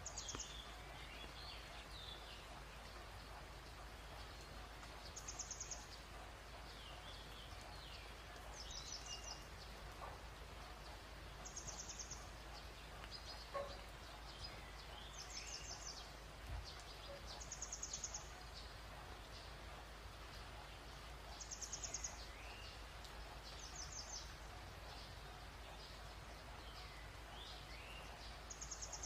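Faint outdoor nature ambience: a short, very high trill repeating every two to four seconds, with softer bird chirps between.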